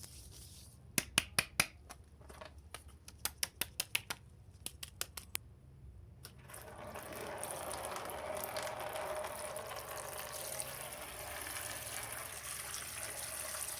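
A run of short, sharp clicks in small groups, then water pouring steadily out of a popped plastic water bag from about six seconds in.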